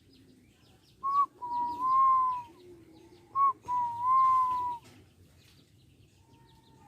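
Young puter (domestic turtle dove) cooing while still learning its call: two clear phrases, each a short note followed by a longer held note, about two seconds apart.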